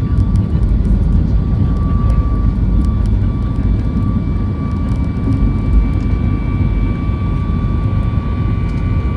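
Steady jet airliner cabin noise of a Boeing 737 MAX 8: a dense low rumble of engines and airflow with a thin steady whine running over it.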